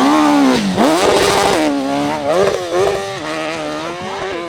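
Large-displacement hill-climb motorcycle engine revving hard, its pitch rising and falling as the throttle is worked. It dips sharply under a second in, revs back up and fades toward the end.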